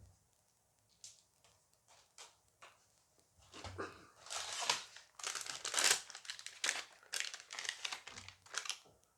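A booster-pack wrapper being torn open and crinkled by hand. A few light clicks come in the first seconds, then about three and a half seconds in a long run of crinkling sets in and carries on almost to the end.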